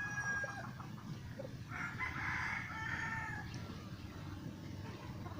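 A rooster crowing: the held end of one crow fades out about half a second in, and a second crow follows from about two to three and a half seconds.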